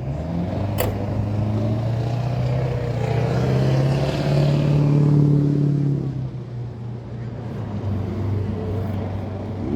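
A car engine running, its low note swelling to a peak about five seconds in and then dropping back, as a car drives by. A sharp click sounds about a second in.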